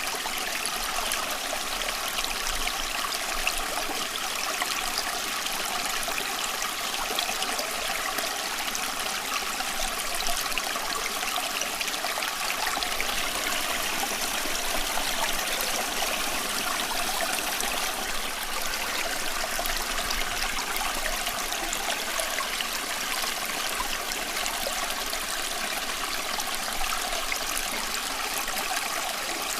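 Flowing water of a stream, running steadily with a fine babbling, trickling texture and no change.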